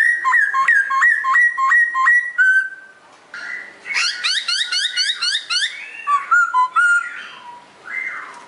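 Pokho songbird singing a loud, varied whistled song. It opens with a run of quick repeated two-pitch whistles, breaks into a fast series of rising notes about halfway through, then ends in looser, lower phrases.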